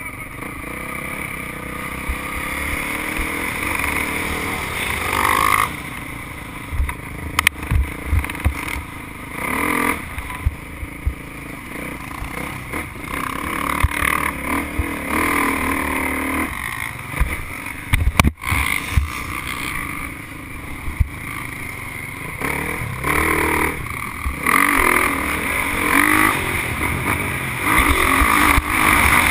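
Motocross bike's engine at racing speed, revving up and falling back again and again through the gears, heard close from the onboard camera. Brief low thumps come through throughout.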